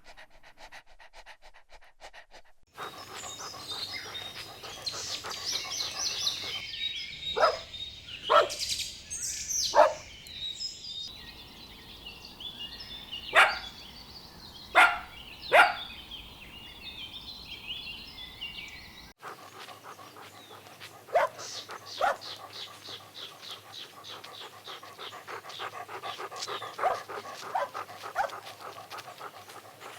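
Dogs playing and barking: about a dozen short single barks scattered irregularly, with panting and other busy dog sounds between them. The background sound changes abruptly twice.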